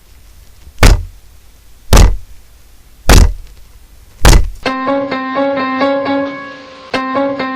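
Four slow, heavy knocks on a door, about a second apart, followed by a keyboard tune that starts after the last knock.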